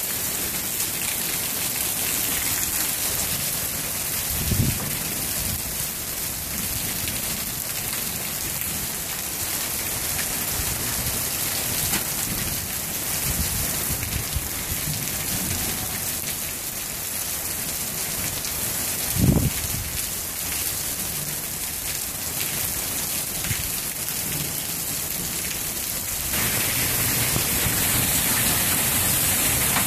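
Heavy rain pouring steadily, a dense hiss of drops on the ground and surfaces. Two brief low thumps, one about four seconds in and a louder one near twenty seconds, and the rain gets louder near the end.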